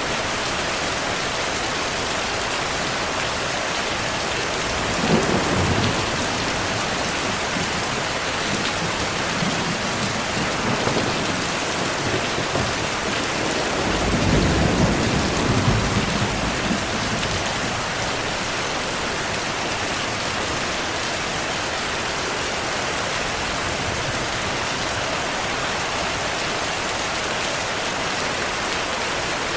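Steady rainfall with thunder rumbling: a short low rumble about five seconds in, fainter ones after, and a longer rumble a little before the middle.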